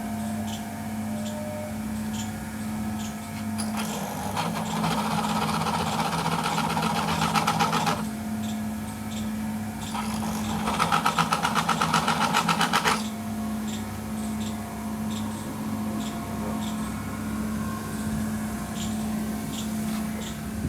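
Workshop machinery: a small motor runs with a steady hum and faint regular ticking, and twice it breaks into several seconds of fast, even mechanical rattling.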